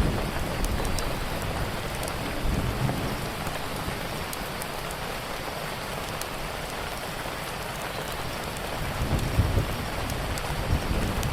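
Steady rain, with scattered sharp crackles of a wood fire. A low rumble swells near the start and again near the end.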